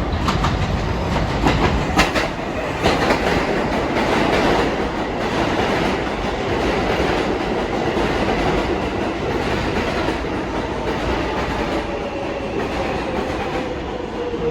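R188 subway train pulling into the station: wheels clacking over rail joints in the first few seconds, then a steady rumble with a faint whine that falls in pitch as the train slows.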